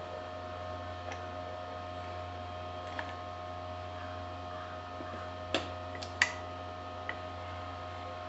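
A steady electrical hum of several tones, with a few sharp clicks or taps, the two loudest a little over halfway through.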